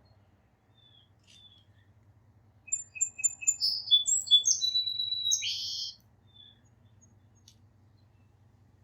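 A songbird sings one song about three seconds long, a few quick repeated high notes followed by buzzier phrases, with a few faint short chip notes before and after.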